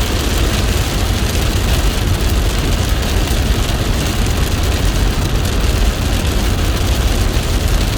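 Heavy rain falling steadily: a dense, unbroken hiss of drops with a deep rumble underneath.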